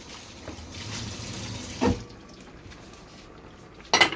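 Kitchen tap running as a bowl is rinsed under it; the water stops about two seconds in with a knock. A sharp, loud clatter comes near the end.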